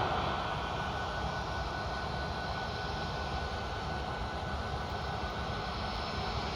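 Jet airliner engines running with a steady rushing roar and a faint high whine that fades out about halfway through; the level eases slightly just after the start.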